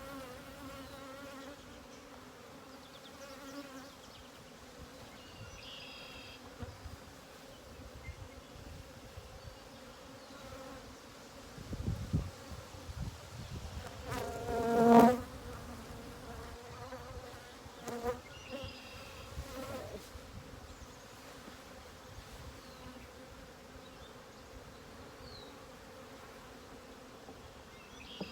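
Honeybees buzzing around an open hive, a steady hum of many wings. About halfway through, one bee flies close past the microphone and its buzz briefly swells loud, then fades.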